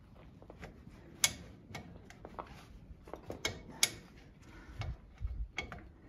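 Scattered metallic clicks and clacks of hydraulic hose quick-couplers being pushed into the rear remote ports of a Kioti CK4010SE tractor, with two sharper clicks about a second in and near four seconds. A low thud near the end.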